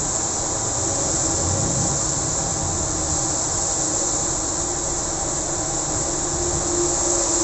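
Steady hiss of heavy rain, with the low rumble of traffic passing on a wet road underneath.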